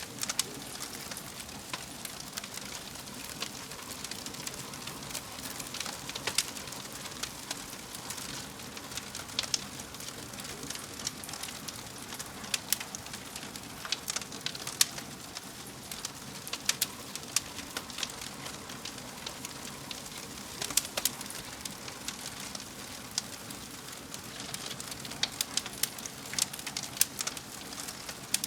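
Wood fire burning in a fireplace: a steady hiss with irregular sharp crackles and pops.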